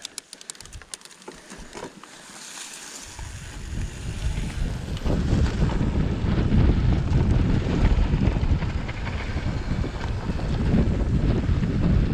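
Wind buffeting the microphone of a camera carried on a moving mountain bike, a low rumble that builds up from about three seconds in and stays loud.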